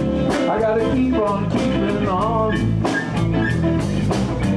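Live blues band playing an instrumental passage between sung lines: electric guitars and bass over a steady drum beat, with bent notes near the middle.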